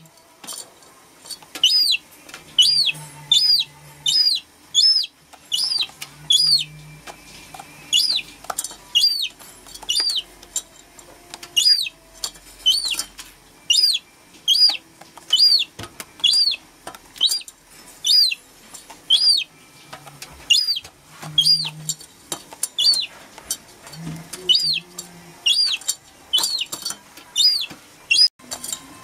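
Young gull chick peeping: a steady string of short, high cheeps, each rising and then falling in pitch, about one to two a second.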